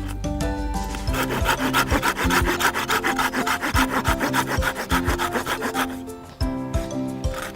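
Hand saw cutting through thin split oak sticks, a run of rapid rasping strokes from about a second in until about six seconds in.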